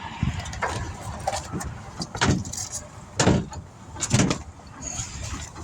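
Equipment being handled at the back of a pickup truck while a portable generator is being set up: a string of irregular thumps and clunks, the loudest about two, three and four seconds in, over a low rumble of wind on the microphone.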